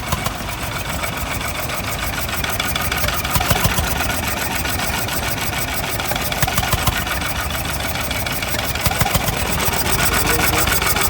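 Engine running steadily at an even idle, its firing strokes coming in a rapid, regular beat.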